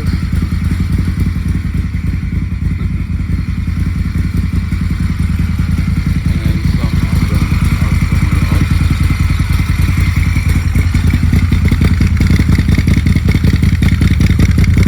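2014 Moto Guzzi California 1400's air-cooled V-twin idling steadily through a Mistral aftermarket muffler, still warming up from a cold start. The firing pulses stay even, and the sound grows a little louder through the second half.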